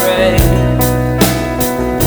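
Rock/pop band music: guitar chords and sustained notes over a steady drum-kit beat.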